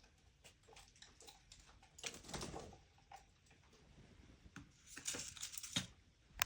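Pet bird pecking at seed in its feeder: small, irregular clicks and taps, with two busier stretches of rattling and one sharp click near the end.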